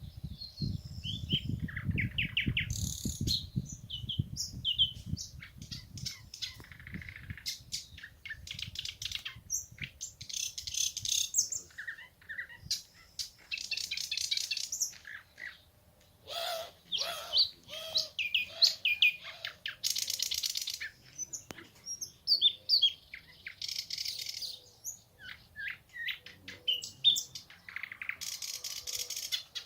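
Nightingale singing: a run of varied phrases made of fast trills, clear sweeping whistles, harsh buzzy rattles and series of repeated loud notes, with short pauses between phrases. A low rumble lies under the first few seconds.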